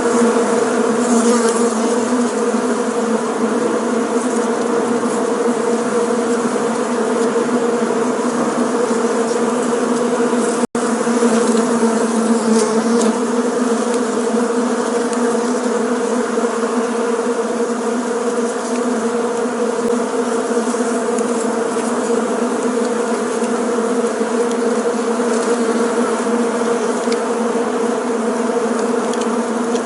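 Many bees buzzing together in a steady, continuous drone. The sound cuts out for an instant about eleven seconds in, then resumes unchanged.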